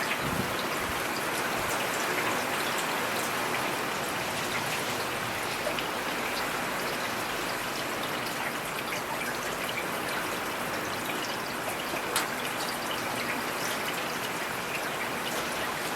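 Steady rain falling: an even hiss of rainfall with scattered individual drop taps, and one louder tap about twelve seconds in.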